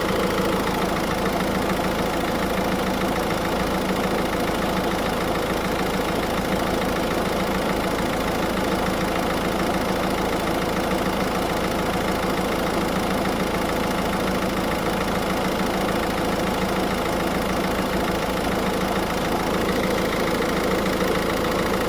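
Car engine idling steadily with the air-conditioning compressor running while the system is being recharged with refrigerant.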